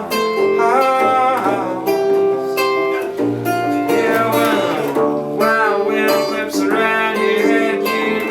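Live music: acoustic guitar strummed and picked, with some wordless singing.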